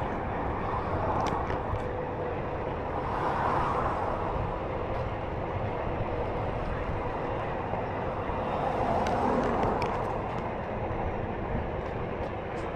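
Steady rumbling noise of a Onewheel ride, from the wheel rolling and the wind, with a faint steady hum. The noise swells and eases a few times, about a second in, near the middle and again later on.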